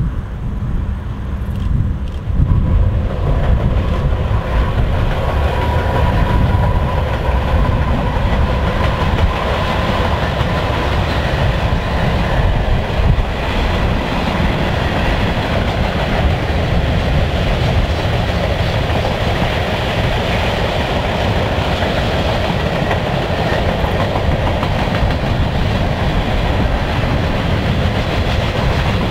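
Freight train passing: its diesel locomotives go by at the start, then a long mixed string of boxcars, hoppers and tank cars rolls past with a steady rumble and clickety-clack of steel wheels on rail. A faint thin whine comes in about five seconds in and fades out a few seconds later.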